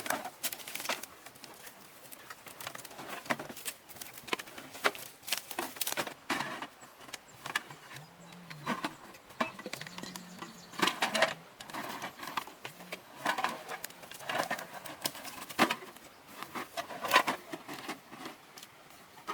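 Irregular clicks and knocks of small objects being handled, with a dove cooing low a few times around the middle.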